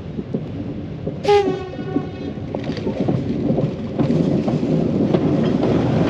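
Train running with a steady rumble and clatter from the wheels, and a short horn blast about a second in. The rumble grows louder toward the end.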